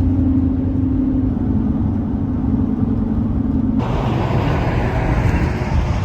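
Car driving: steady engine and road noise with a low hum that drops slightly in pitch about a second in, then a sudden switch to broader road and wind noise about four seconds in.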